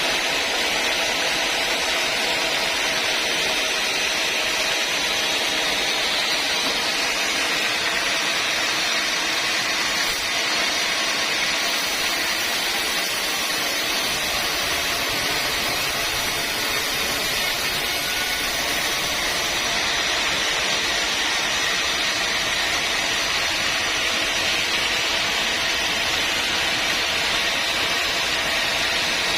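Sawmill saw running steadily through wood, a continuous loud noisy whine, with a deeper rumble joining about halfway through.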